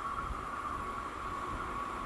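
Distant sound of an approaching SBB double-deck electric passenger train: a steady high-pitched hum over a low rumble, slowly growing louder.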